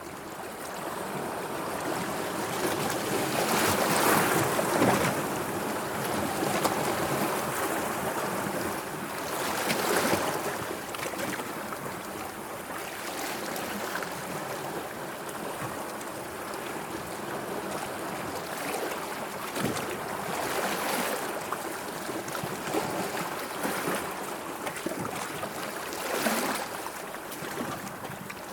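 Sea waves washing in, a steady rush of water that swells louder several times as waves break, most strongly about four seconds in.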